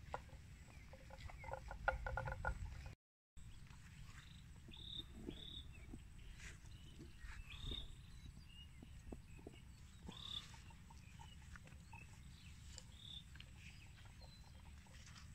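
Short, high bird chirps repeating every second or so over a steady low rumble, with a quick run of ticks and a clucking-like call in the first three seconds.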